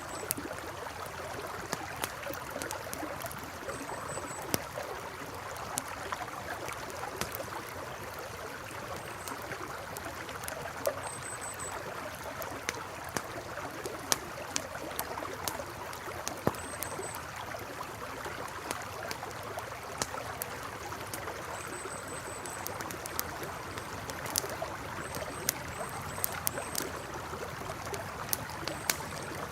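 Campfire crackling, with sharp pops every second or so, over the steady rush of a flowing river. Short, high chirps come and go in little runs.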